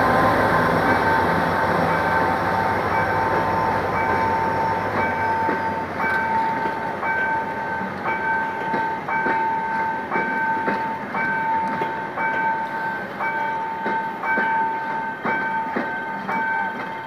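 A GM GT22CW diesel-electric locomotive's V12 engine pulls a passenger train past, its low engine sound fading out about five seconds in. The coaches' wheels then click over the rail joints as they roll by, under a steady high-pitched tone.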